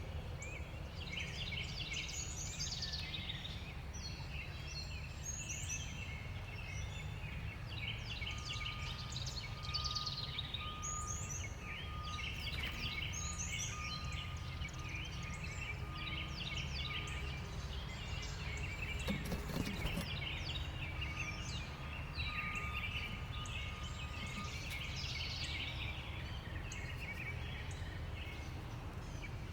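Many small songbirds chirping and calling over one another, with a steady low rumble underneath. A thin steady tone comes and goes in the middle, and a single short knock sounds about two-thirds of the way through.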